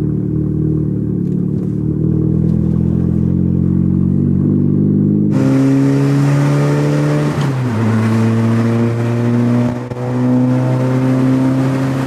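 Car engine and exhaust while driving, a steady drone at first. About five seconds in it suddenly gets louder and brighter, with road and wind noise. The engine note then climbs through the gears, dropping at a gear change about two seconds later and again near the end.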